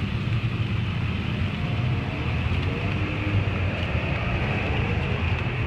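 Vehicle engine running and road noise heard from inside the cabin: a steady low rumble with an even hiss over it.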